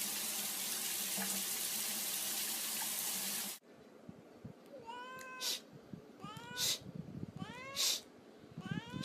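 A steady hiss for the first few seconds cuts off sharply. Then a cat meows four times, about a second apart, each rising-then-falling call ending in a short, loud breathy burst.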